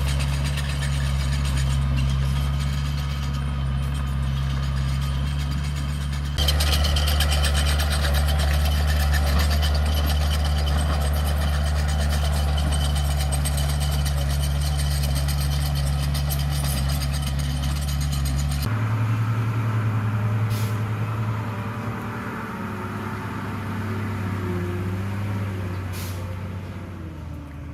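Heavy diesel engine of construction machinery running steadily. It gets louder about six seconds in, and about two-thirds of the way through it switches abruptly to a different engine note. Two short hisses come near the end.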